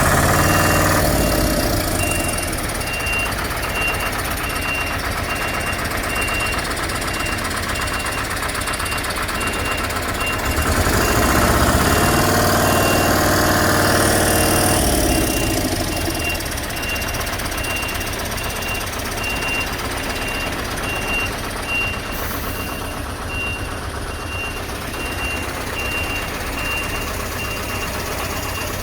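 Heavy vehicle's diesel engine idling steadily, growing louder for a few seconds about eleven seconds in before settling back. A faint high pulsing tone runs throughout.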